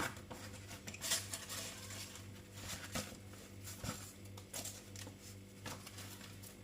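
Faint, scattered light clicks and knocks over a steady low hum, in a quiet room.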